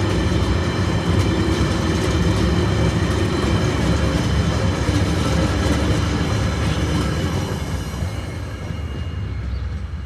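Empty ore wagons of a freight train rolling past. The wheels make a steady rumble and clatter on the rails, with a faint high ring over it, and the sound eases slightly near the end.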